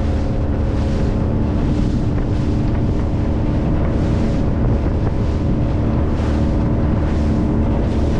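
Speedboat's motor running steadily under way, with wind buffeting the microphone. Water rushes past the hull in a rhythmic swish about twice a second.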